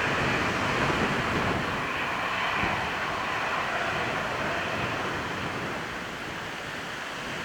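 Boeing 737-800's CFM56-7B jet engines at takeoff power during the takeoff run, a steady rushing noise that slowly fades.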